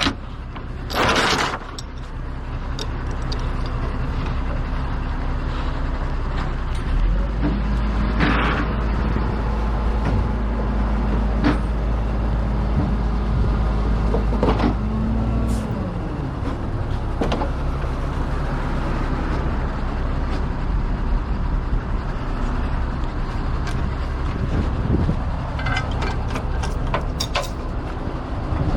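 Heavy truck engine running steadily, with a deeper hum setting in about seven seconds in and dropping away with a falling tone at about fifteen seconds. There are short hisses, one near the start and one about eight seconds in.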